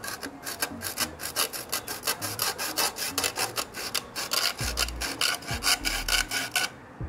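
Quick back-and-forth sawing strokes, about five a second, cutting through a rubber fuel hose; they stop shortly before the end.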